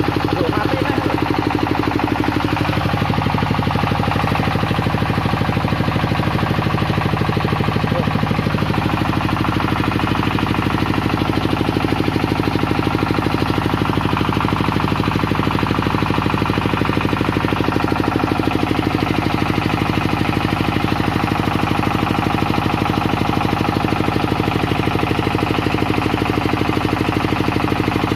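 Tianli 28 hp diesel generator engine running steadily, with a fast even knock. Its speed shifts a little in the first several seconds, then holds.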